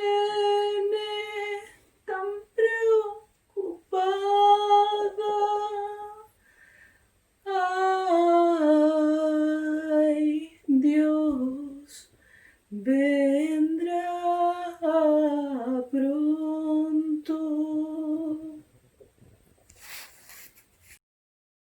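A female voice singing unaccompanied in long, held notes, phrase after phrase with short breaths between, the last phrase ending about nineteen seconds in.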